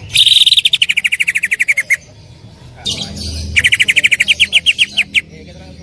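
Cucak ijo (green leafbird) singing its loud rapid-fire 'tembakan' bursts: a fast string of about a dozen notes a second that falls in pitch, a short call, then a second rapid string that slows near the end.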